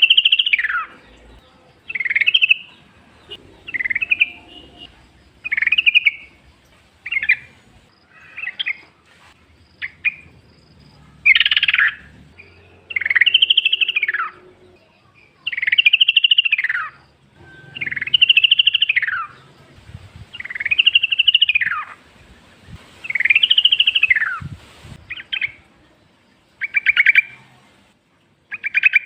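Yellow-vented bulbul (trucukan) singing in the wild: a string of short, bubbly, rising-and-falling phrases repeated about every one and a half to two seconds.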